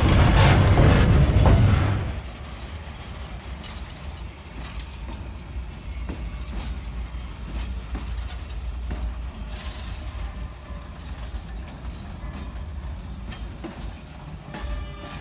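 Freight train of container wagons rolling past close by: loud wheel-and-rail rumble and clatter for about two seconds, then a quieter steady rumble with scattered clicks as the wheels cross rail joints.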